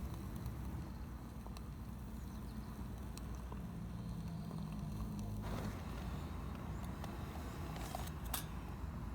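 A low, steady engine rumble, like a vehicle running at a distance, with a few light clicks near the end.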